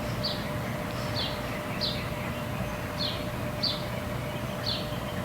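A small bird chirping over and over, short high chirps about one and a half a second, with a faint steady hum under the outdoor background.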